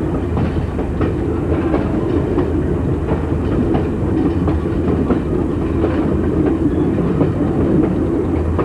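Passenger railroad car rolling along jointed track: a steady rumble with the clickety-clack of wheels passing over rail joints, repeating about once or twice a second.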